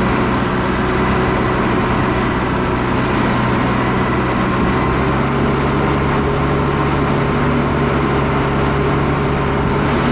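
Concrete truck's diesel engine running steadily. From about four seconds in, a laser level receiver gives a high beep, on steadily with short breaks.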